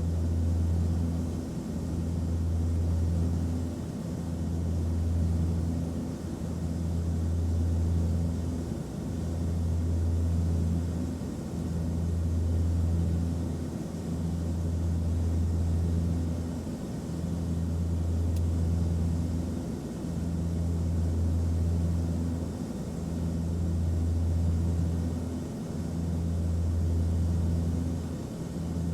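Airplane cabin noise: a low engine drone over a steady hiss, swelling and fading in a slow, regular pulse about every two and a half seconds.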